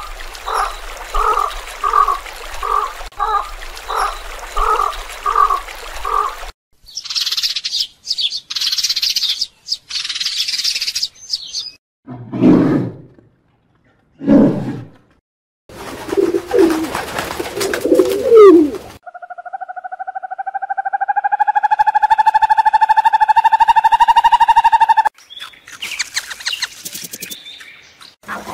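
A run of different animal calls, cut abruptly from one to the next. First come evenly repeated calls at about two a second, then high bird chirps and two short low calls. A long, slightly rising call, the loudest sound, ends suddenly near the end.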